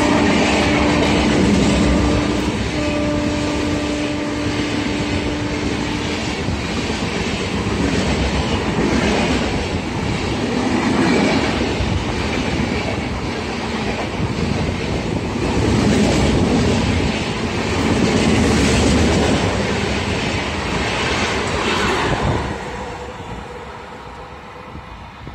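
Express passenger train's coaches passing close at speed, their wheels clattering over the rail joints in a rhythmic clickety-clack that swells and ebbs. A train horn sounds a long blast, broken once, that stops about six seconds in. Near the end the clatter falls away to a much quieter background.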